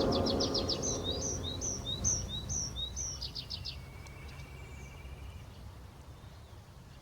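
A songbird singing a series of quick rising two-note whistles, about two a second, then a short rapid trill and a lower drawn-out note. The tail of soft background music fades out during the first second.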